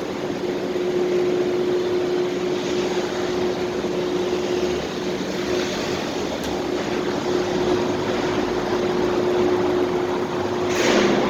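Car park ambience: a steady drone carrying a constant low hum, with a short hiss near the end.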